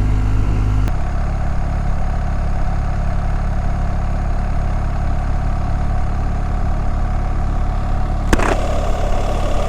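BMW GS boxer-twin motorcycle engine running steadily on the road, with road and wind noise. About a second in, the engine note steps down. Near the end there is a brief sharp click.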